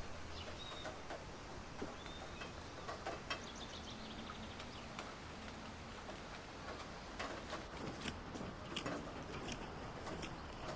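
Quiet background with a few short, high bird chirps in the first few seconds and scattered light clicks and taps throughout.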